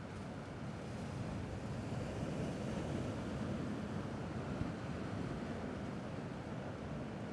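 Sea waves washing steadily on a rocky shore, a continuous low wash, with one brief click a little past halfway.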